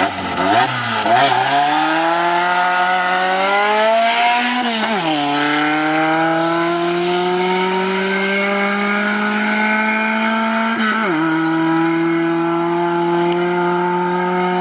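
Car engine accelerating under load, its pitch climbing steadily and dropping sharply twice at gear changes, about five and eleven seconds in.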